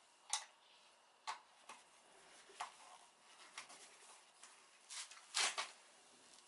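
Tools and small metal engine parts being handled during the repair: about seven separate clinks and knocks at uneven intervals, the loudest a little past five seconds in.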